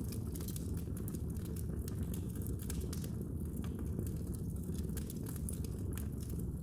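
Fire crackling in a fireplace: frequent small, sharp pops and snaps, irregularly spaced, over a steady low rumble.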